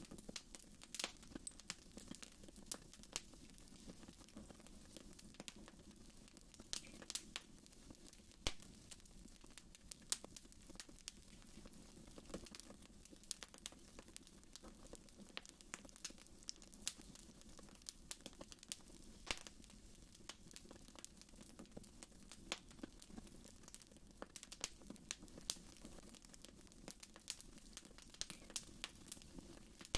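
Wood fire burning in a fireplace, crackling quietly with irregular sharp pops and snaps, a few louder ones standing out.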